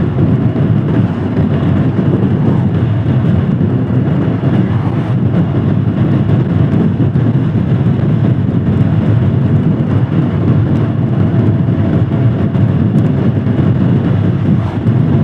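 Royal Enfield Scram 411's single-cylinder engine running steadily at a cruise, under a steady rushing noise of wind and road.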